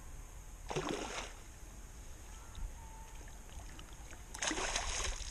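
Two short bursts of water splashing, one about a second in and one near the end, each about half a second long.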